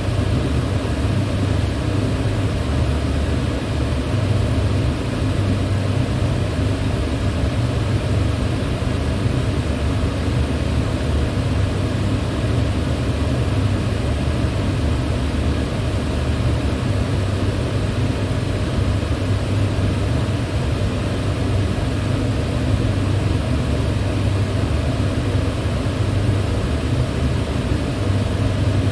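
Electric fan running steadily: a constant low hum and rush of air that does not change.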